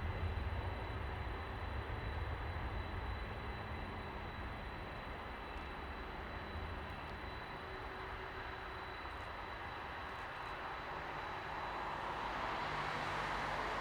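Distant jet noise from an Airbus A321's twin turbofans: a steady low rumble that eases off through the middle, then a broader, louder jet roar that builds near the end.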